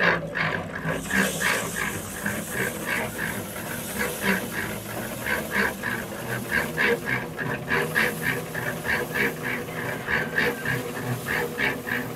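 Ducks quacking over and over, about three short calls a second, over a steady hiss.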